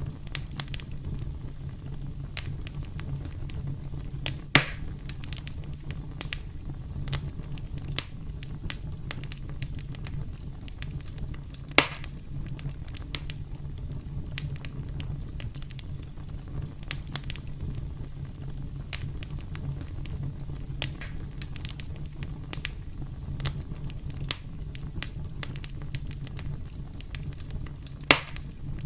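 Campfire crackling: many small pops and snaps over a steady low rumble of the flames, with three louder sharp pops, about four seconds in, about twelve seconds in and near the end.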